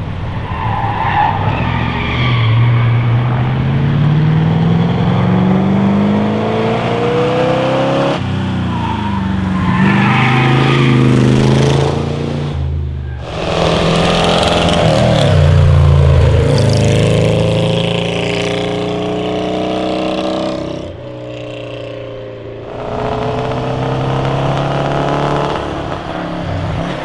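Classic racing car engines accelerating hard uphill, each run revving up in pitch and dropping back several times, with two brief lulls between runs.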